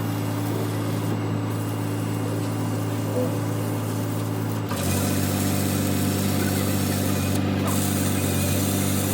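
A machine running with a steady low hum of a few fixed tones. About five seconds in, a louder hiss joins it and the hum shifts pitch slightly.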